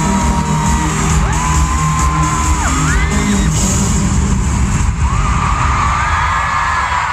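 Live pop band playing amplified through an arena sound system, heavy on bass and drums, with fans screaming long high-pitched screams over it. The music drops away about five seconds in, leaving overlapping screams from the crowd.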